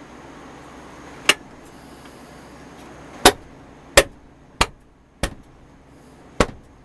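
Six sharp knocks at uneven intervals, each with a short ring, over a steady low hiss.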